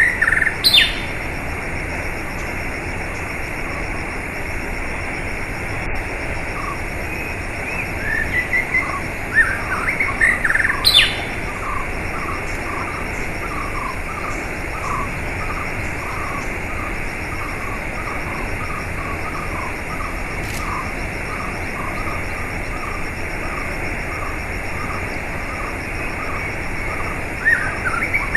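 Steady flowing water with small birds chirping over it. There are quick bursts of chirps at the start and again around 8 to 11 seconds in, then a long run of short, even notes, about two a second.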